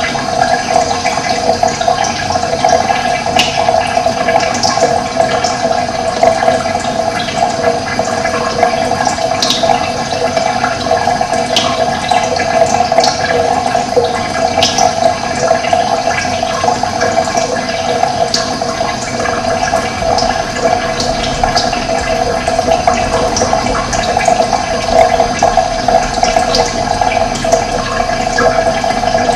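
Steady rush of running water, with short bird chirps scattered over it every second or two.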